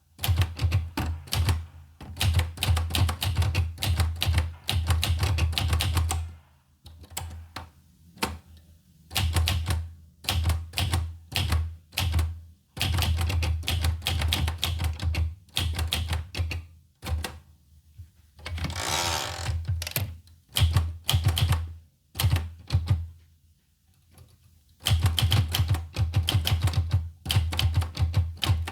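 Olivetti Lettera 25 manual portable typewriter being typed on: quick runs of key strikes broken by short pauses, with one longer rasping sound about two-thirds of the way through.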